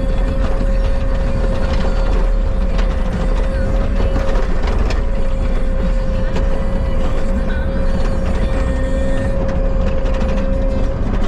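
Bobcat skid steer running while working, a steady low engine rumble with a constant whine, and scattered rattles and clanks from the machine and its grapple.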